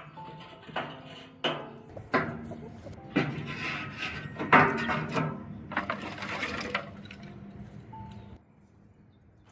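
Kitchen pots, dishes and utensils clinking and knocking: a run of sharp strikes, some ringing briefly, busiest in the middle.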